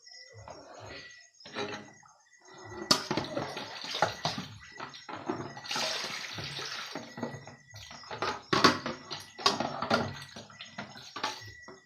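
Tap water running and splashing over dishes being washed by hand in a sink, stopping and starting, with dishes and cutlery clinking sharply now and then.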